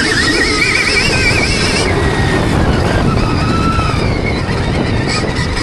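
Motocross bike being ridden on the track, with wind noise on the microphone; a high whine rises and falls with the throttle.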